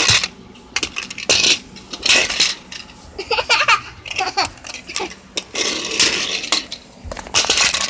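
Small toy cars clattering against the play set and each other: a string of sharp irregular clicks and clacks, with a brief child's vocal sound in the middle.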